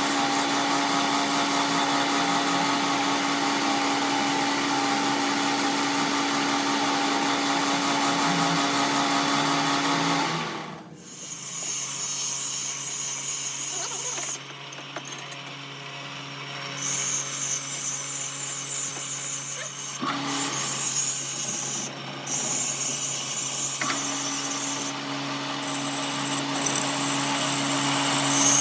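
Electric power tool or machine tool running steadily at a fixed pitch. About eleven seconds in it winds down, then runs again at a lower pitch, with a high hissing that starts and stops several times.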